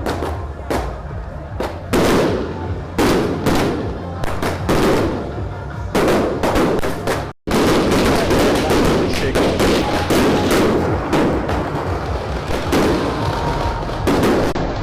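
Firecrackers going off: separate loud bangs in the first half, then after a brief break a dense, rapid crackle of a firecracker string.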